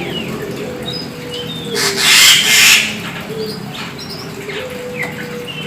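Black magpie-robin (kacer hitam) singing in short whistled, gliding phrases. About two seconds in, a loud rustling burst lasts about a second.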